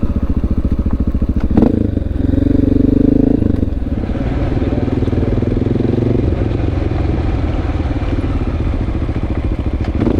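Honda XR650L's single-cylinder four-stroke engine running steadily under way, with a sharp click about one and a half seconds in. The engine gets a little louder for a second or so about two seconds in.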